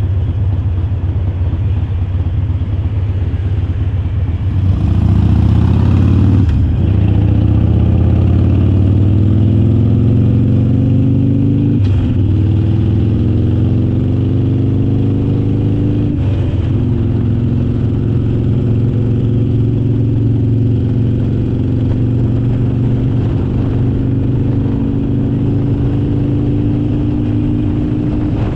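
Harley-Davidson Forty-Eight's 1200 cc V-twin running, then pulling away and accelerating through the gears. There are three upshifts about 5 s apart, each a short break and a drop in pitch before the revs climb again. After the third it settles into a steady cruise.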